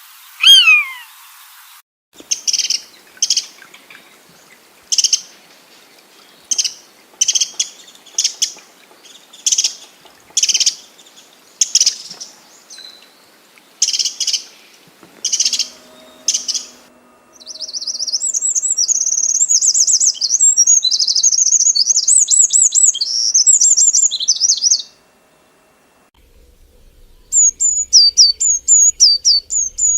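Birds calling and singing in several short segments joined one after another. A single falling whistle comes first, then a call repeated about once a second, then a fast, warbling trill lasting several seconds, and after a brief pause a quick run of sharp descending notes.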